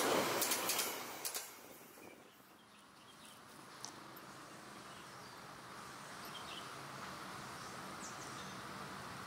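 Container freight train rolling past, the wagon wheels clacking over the rail joints, with a last couple of clacks just over a second in as it fades away. Then a quiet outdoor background with a few short, faint, high chirps.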